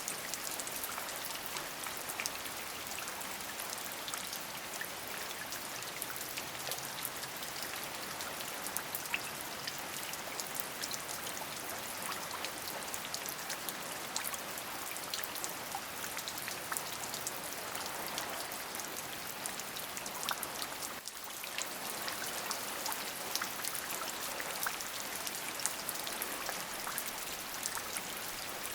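Steady rain, an even hiss dotted with many distinct sharp drop hits. It dips briefly in level about two-thirds of the way through.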